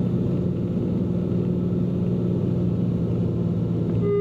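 Cessna P210N's engine and propeller droning steadily in the cockpit during the final approach to landing.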